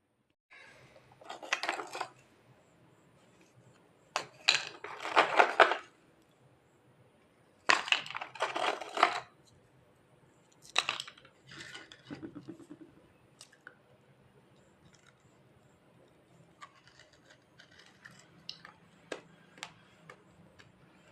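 Pieces of baked clay lamp being bitten and crunched between the teeth, in four loud bursts of crunching about three seconds apart. These are followed by softer chewing and scattered small clicks.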